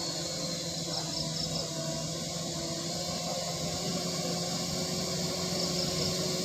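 Steady low engine hum with a hiss in the background, and two short groups of high chirps, about a second in and near the end.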